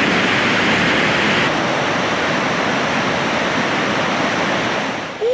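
Loud, steady rushing of white water from the River Braan running high after days of rain, the sound of a river in spate tumbling through its falls.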